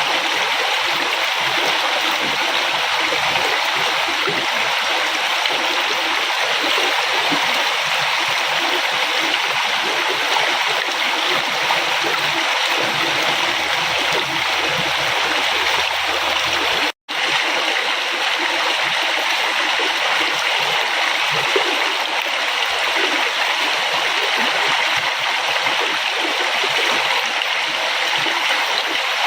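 Flowing river water, a steady rushing and gurgling with most of its sound in the middle and upper range. It cuts out for an instant about two thirds of the way through, then carries on unchanged.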